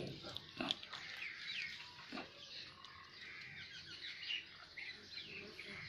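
Birds calling outdoors, many short high calls that slide downward in pitch, repeating every fraction of a second, with a few dull knocks near the start and about two seconds in.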